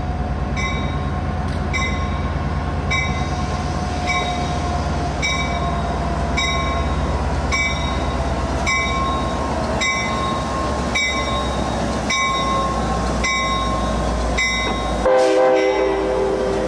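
Diesel-hauled Caltrans passenger train pulling out, its engine rumbling steadily while a warning bell rings just under twice a second throughout. A short horn blast sounds near the end.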